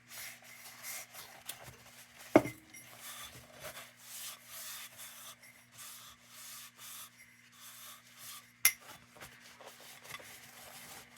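A cloth rubbing and squeaking over a glass lantern globe as it is wiped clean, in irregular strokes. There are two sharp clicks, one about two seconds in and one later on.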